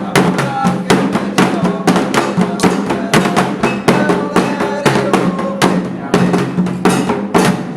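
Candomblé ritual drumming: atabaque hand drums playing a quick, steady rhythm of sharp strokes throughout.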